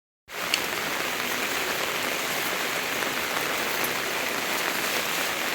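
Steady rain falling, an even hiss that starts just after a brief dropout in the sound.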